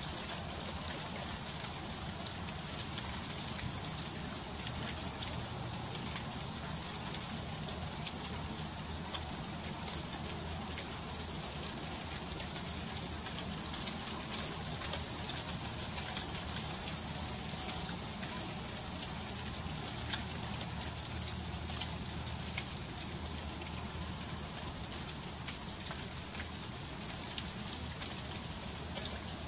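Freezing rain falling steadily: a dense, even hiss with many small scattered ticks of drops striking surfaces.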